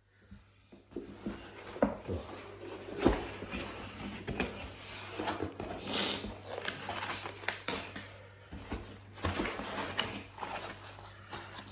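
Irregular rustling, clicks and light knocks of things being handled and unpacked, over a steady low hum.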